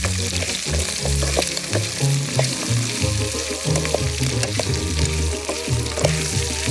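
Food frying in a pot over a wood fire: a steady sizzle with scattered pops, with music and its bass line playing along.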